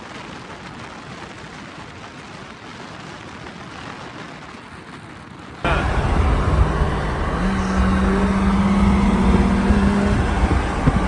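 Car on the move: steady road and engine noise, which jumps suddenly to a much louder engine drone about halfway through, holding a steady low note.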